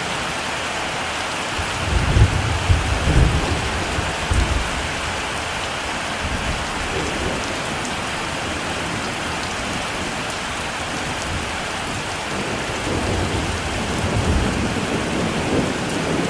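Heavy rain falling steadily, with thunder rumbling twice: once about two seconds in and again near the end.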